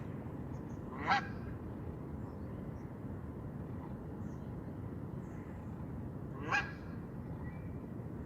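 A goose honks twice, two short calls about five seconds apart, over a steady low background noise.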